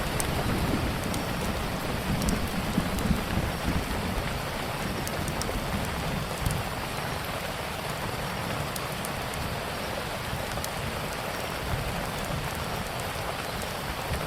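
Steady heavy rain with sparse small crackles of a wood fire. A low rumble of thunder fades out over the first few seconds.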